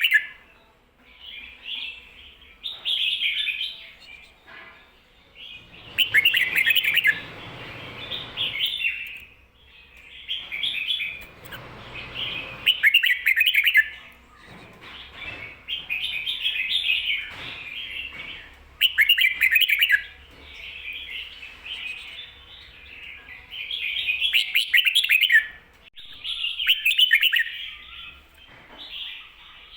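Red-whiskered bulbul singing short warbled phrases over and over, one every two seconds or so: the doubled 'ko-ta-ra' song.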